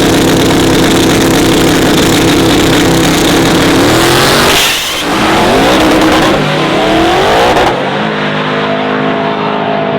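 Loud race-truck engine running at high revs. Its pitch dips and sweeps about four to five seconds in, with gliding rises and falls like a vehicle passing, then settles into a steadier, duller drone.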